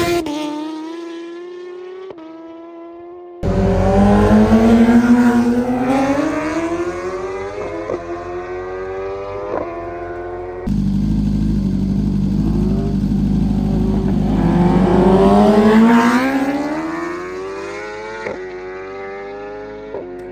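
High-revving vehicle engines at full throttle, their pitch climbing steadily as they accelerate. The sound comes in abruptly loud twice, about three and a half and ten and a half seconds in, and fades away after each long pull.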